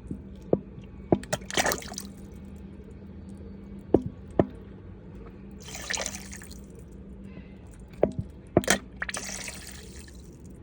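Water splashing and dripping in bursts at a small 1.5-inch gold dredge, with sharp knocks, over the steady low hum of the dredge's engine.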